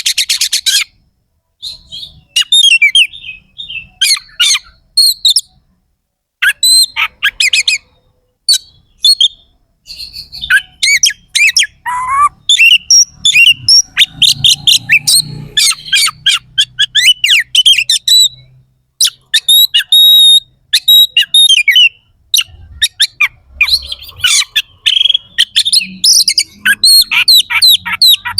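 Oriental magpie-robin (kacer) singing energetically in bursts of rapid, harsh, chattering phrases mixed with sharp whistles, with short pauses between the bursts.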